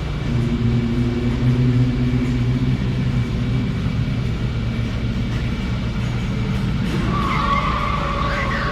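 Harsh noise music: a dense, low rumbling drone with held low tones, joined about seven seconds in by higher, wavering tones.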